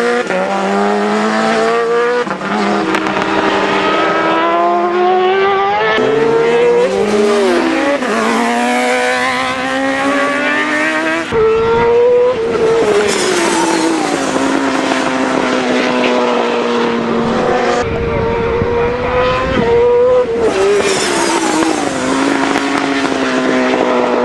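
Racing superbike engines at high revs, repeatedly climbing in pitch through the gears and dropping on downshifts. The sound changes abruptly several times.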